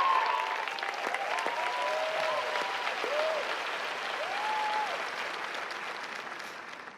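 Studio audience applauding, with a few voices whooping through the clapping. The applause fades away toward the end.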